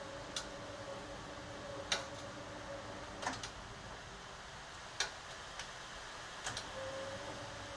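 1980 HUWA Automatic Standard 4 washing machine running, with a steady hum that stops about three seconds in and comes back near the end, and sharp clicks every second or so.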